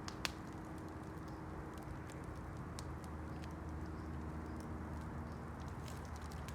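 Campfire burning, a steady low rush of flame with scattered crackles and pops from the burning wood, one sharper pop just after the start.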